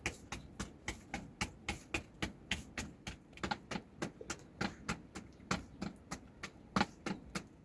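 Flour dough being patted or worked by hand for roti: a steady run of short, sharp taps, about three or four a second.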